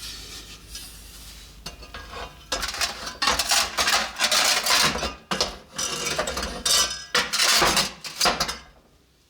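A kitchen utensil scraping and stirring against cookware in a run of rough, uneven strokes. It starts about two and a half seconds in and stops shortly before the end.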